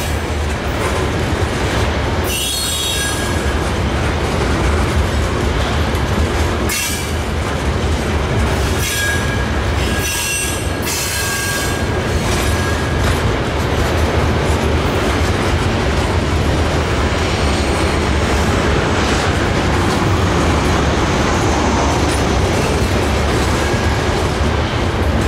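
Freight train's covered hopper cars rolling past, steel wheels on rail making a steady rumble, with high-pitched wheel squeal several times in the first half.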